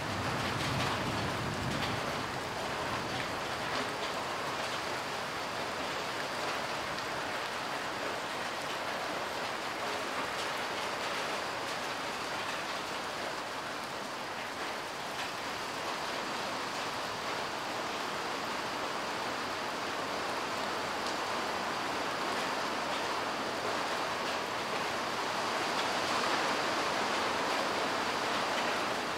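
Steady light rain falling, the drops hitting parked cars and wet ground.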